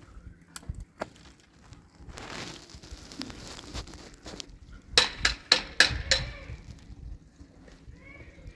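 A rustling, crunching noise, then about six sharp knocks in quick succession, the loudest sounds, a little past the middle.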